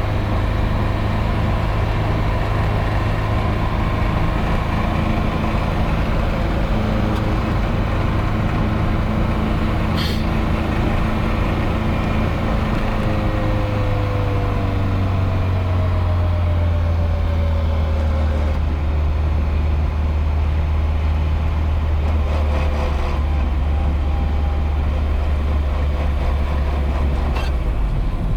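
Nissan 240SX engine and exhaust droning steadily while driving, the engine note settling to a lower pitch about halfway through. The exhaust has a hole blown in it. A single sharp click about ten seconds in.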